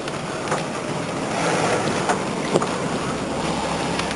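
Steady road and wind noise of a car moving along a street, heard from inside the cabin, with a few light knocks.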